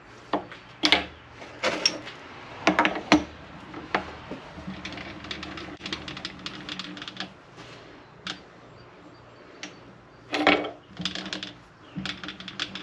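Scattered sharp metal clicks and clinks of lathe tooling being handled, as a cutter is swapped.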